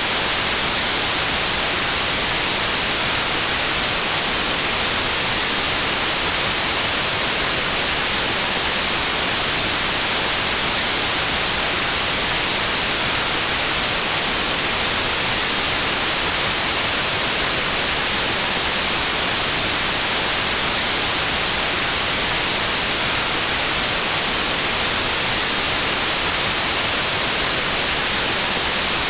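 Steady synthetic white noise: an even hiss with its energy weighted toward the high frequencies, unchanging throughout.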